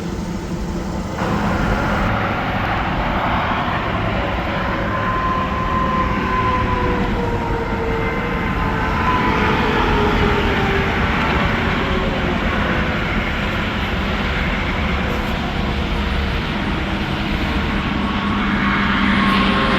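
Interstate traffic passing at speed, mostly heavy trucks: a steady loud roar of tyres and engines. Whines glide down in pitch as vehicles go by.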